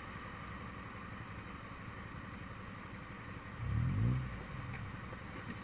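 Steady road traffic noise, with a vehicle engine accelerating, its pitch rising, about three and a half seconds in.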